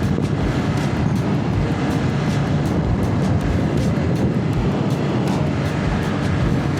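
Motorcycle engine running at a steady cruising speed while riding, a constant low hum with road noise.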